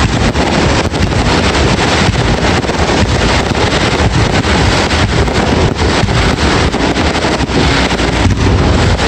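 Fireworks going off in a dense, continuous barrage, with many overlapping bangs and crackles and no break.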